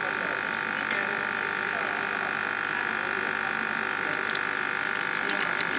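Tuna filling machine running: a steady mechanical drone with several high, steady tones held at an even level.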